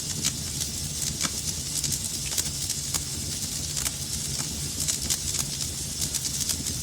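Wood fire crackling in a fireplace: irregular sharp pops and snaps over a steady low rumble and hiss of burning.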